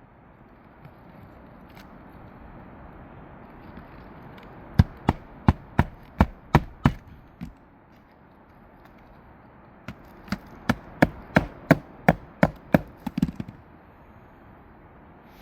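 Hammer driving roofing nails into a replacement shingle: two runs of sharp blows, about three a second, the second starting a few seconds after the first ends.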